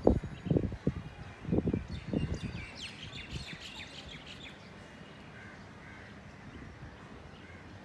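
Birds chirping and calling, a cluster of high, quick calls about two to four seconds in, over steady outdoor background noise. Several loud low rumbles in the first two seconds.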